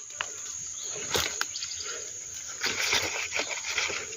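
Crickets trilling steadily under irregular rustling and small snaps of leaves and plants being handled, loudest about a second in and again around three seconds.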